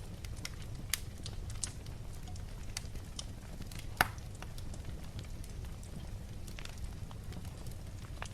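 Wood fire crackling in a fireplace: scattered sharp pops over a steady low rumble, with the loudest pop about four seconds in.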